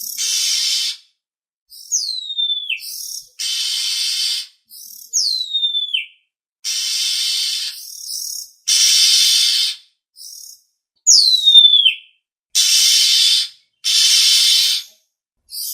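Oriental magpie-robin calling: harsh rasping notes about a second long, repeated, with a clear whistle that glides steeply down breaking in three times.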